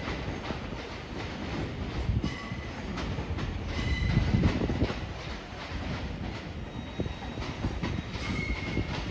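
Train running along the track through the station, with irregular clicks from the rails and several short, high wheel squeals.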